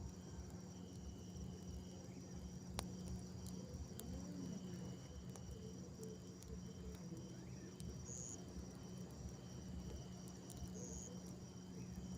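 Night insects, crickets, trilling steadily, with a second trill that comes and goes in spells of about a second. A low steady hum runs underneath, with a few faint clicks.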